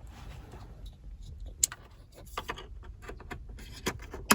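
Small sharp plastic clicks and light handling noises as the wiring connector is plugged back into a BMW 3 Series instrument cluster. Two louder clicks stand out, one about a second and a half in and one at the very end.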